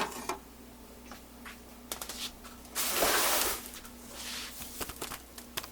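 Kitchen handling sounds while a sauce is mixed in a bowl: a knock, a few light clicks, then a short hissing rush about three seconds in and a fainter one after it.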